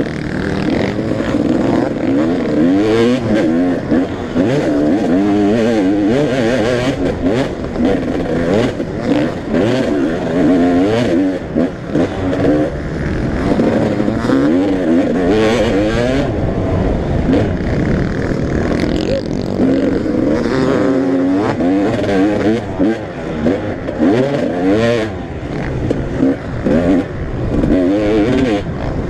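Several motocross bikes racing, their engines revving up and down, many rising and falling pitches overlapping.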